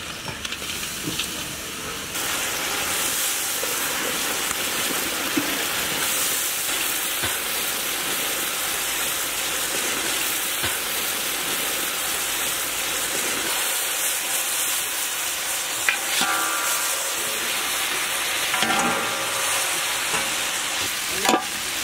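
Fried chicken pieces sizzling as they go into a hot iron wok of sauce and are stirred with a metal ladle. The sizzle swells about two seconds in and stays steady. Twice near the end there are short squealing scrapes, fitting the ladle dragging on the wok.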